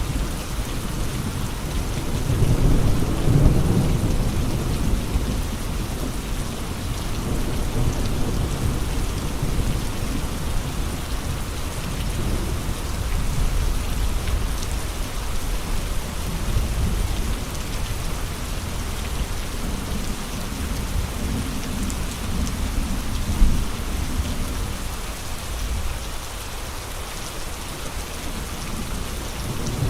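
Steady rain with gusting wind. Deep rumbling swells rise and fade several times, strongest a few seconds in. A short loud thump comes about two-thirds of the way through.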